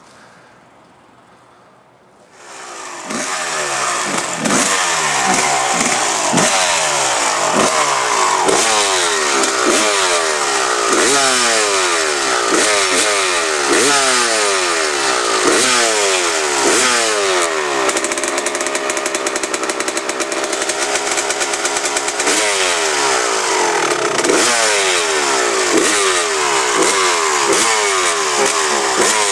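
A loud engine comes in suddenly about three seconds in and revs up and falls back again and again, roughly once a second. Past the middle it holds one steady pitch for a few seconds before the rapid revving starts again.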